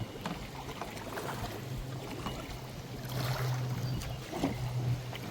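Kayak paddles dipping and splashing in river water in irregular strokes, over a steady low hum.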